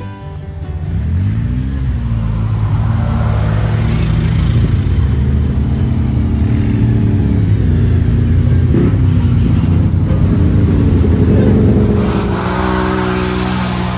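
ATV engine running under load and revving, its pitch climbing as it accelerates about a second in and rising and falling again near the end.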